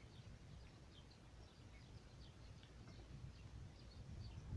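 Near silence with faint, scattered bird chirps over a low background hum.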